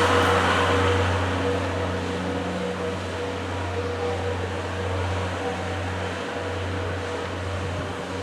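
Stopped train at the platform: a steady low mechanical hum with a hiss that eases off over the first couple of seconds.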